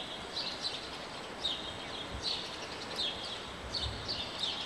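Small birds chirping over and over, short high chirps that dip in pitch, with a few faint dull thuds of hooves on soft arena dirt.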